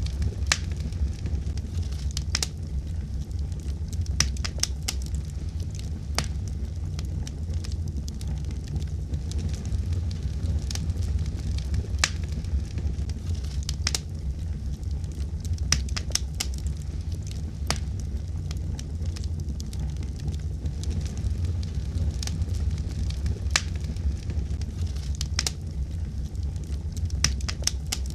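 Wood fire burning in a fireplace: a steady low rumble of flames with irregular sharp crackles and pops, some single and some in quick clusters.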